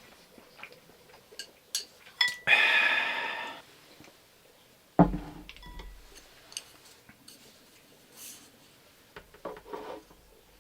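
Tableware being handled during a meal: several light clinks, one ringing briefly, then a loud rushing sound lasting about a second, and a heavy thump about five seconds in as something is set down.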